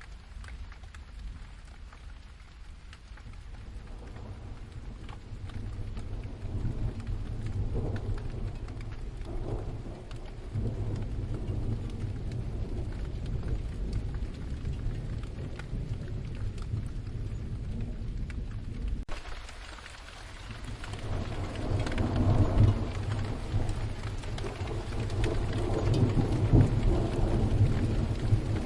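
Steady rain with long, low rolls of distant thunder that swell and fade. The sound changes abruptly about two-thirds of the way through, then the thunder builds again.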